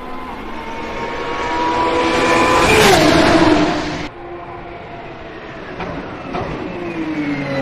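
Lamborghini Essenza SCV12's V12 engine approaching at speed and passing close by, loudest about three seconds in, where its pitch drops sharply. The sound cuts off suddenly, then another engine approaches, growing louder near the end.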